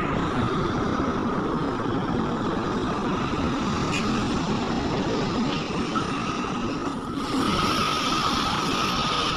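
Heavy earthmoving machinery at a mine running steadily: an excavator's or haul truck's engine rumble, with a steady high whine over it.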